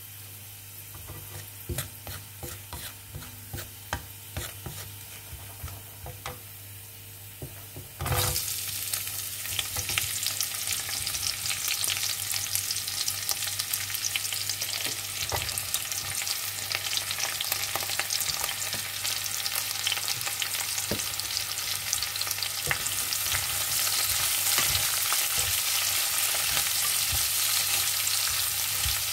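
Chopped garlic frying in hot oil in a wok, with a wooden spatula clicking and scraping against the pan. About eight seconds in, sliced cabbage, carrot and onion go into the oil and a loud, steady sizzle starts, stirred with the spatula.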